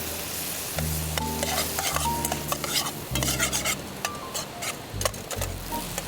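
A ladle scraping and knocking in a frying pan as food is stir-fried over a sizzle, with background music of steady held notes.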